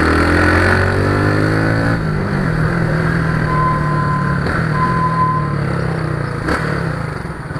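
Motor vehicle engine running, rising in pitch through the first second as it speeds up and then holding steady. Two short high beeps sound in the middle.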